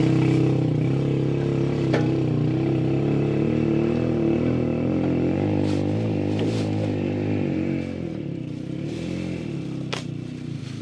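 A vehicle engine running with a slightly wavering pitch, growing gradually fainter and dropping off further near the end, as if driving away. A few sharp clicks or knocks come through.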